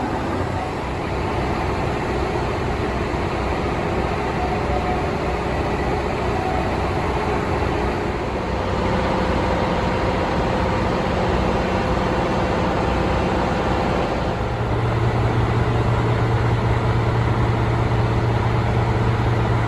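Diesel engines of a KiHa 183-series railcar train running at a standstill, a steady drone with a humming note. About 8 seconds in a higher hum joins, and from about 14 seconds a strong low hum comes in and holds steady.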